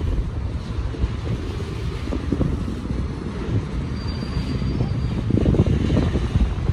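Freight train rolling past, a steady low rumble of railcars on the track.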